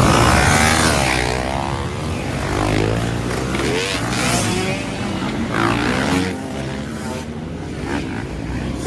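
Motocross dirt bike engines revving up and down as bikes race past, several engines at once with their pitch repeatedly rising and falling, loudest at the start.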